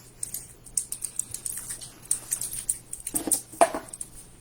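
Plastic candy wrappers crinkling and crackling in quick, irregular clicks as the hard candies are unwrapped, with one louder, duller sound about three and a half seconds in.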